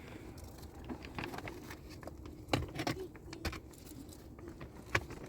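Irregular light clicks and knocks of objects being handled, the sharpest about two and a half seconds in and again near the end.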